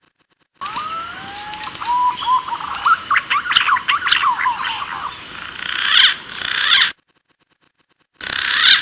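Green pigeon (punai) calls played as a hunting lure call: wavering whistled notes first, then a dense flurry of higher chirping calls. The sound cuts off abruptly and starts again briefly near the end.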